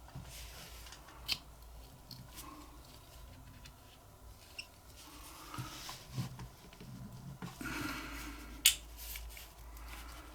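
Small metal lighter parts handled and pushed into the lighter's case: faint scraping and rubbing with a few sharp clicks, the loudest shortly before the end.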